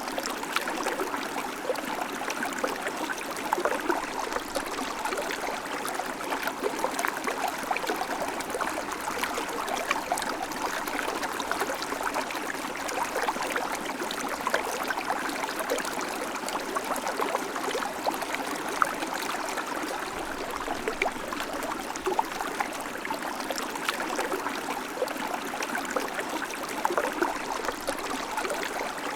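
River water flowing: a steady rush of moving water with many small splashes.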